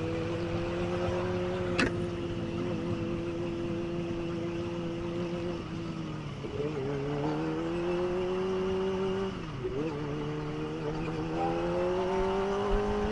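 Kawasaki ZX25R's inline-four engine running at steady cruising revs over a rush of wind noise. Its pitch sags about six seconds in, drops briefly again near ten seconds, then climbs as the bike speeds back up. A short sharp click comes about two seconds in.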